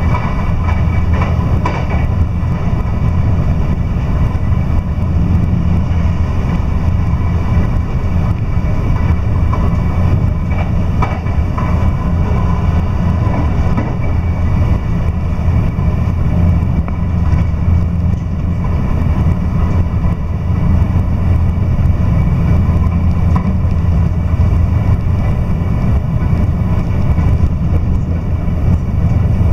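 Electric train running at speed, heard from inside the passenger car: a steady low rumble of wheels and running gear on the rails.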